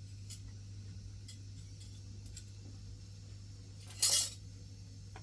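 A short, sharp clinking clatter of hard objects about four seconds in, with a few faint ticks before it over a steady low hum.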